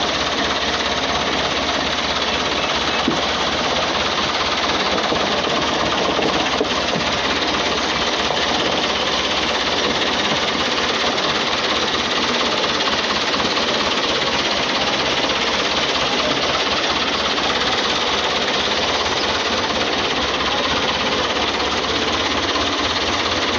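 New Holland 640 tractor's diesel engine running steadily with its thresher, a dense rapid mechanical clatter that does not let up.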